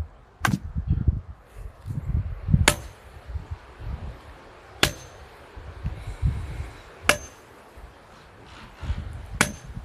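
A 6-pound sledgehammer striking a steel well pipe, driving it into the ground: five ringing metallic clangs about two seconds apart. Wind gusts rumble on the microphone between the strikes.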